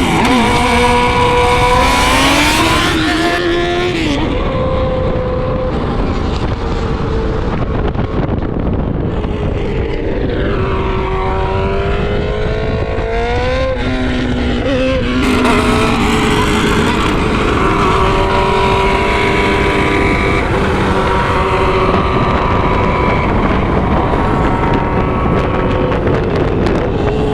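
Vehicle engine pulling hard, its pitch rising for a few seconds and then dropping twice, about four seconds and about fifteen seconds in. It runs over a steady rumble of wind and road noise.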